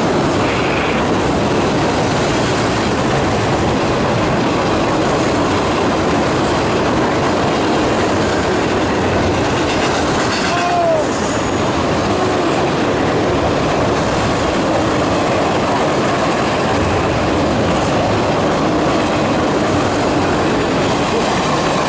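CSX double-stack freight train's well cars, loaded with trash containers, rolling past close by: a steady noise of steel wheels on rail with clickety-clack. A brief wheel squeal comes about eleven seconds in.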